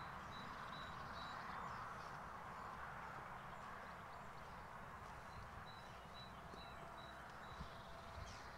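Quiet paddock ambience: a steady low rumble and soft hiss, with a small bird repeating a short high note, about four times near the start and about five times in the middle.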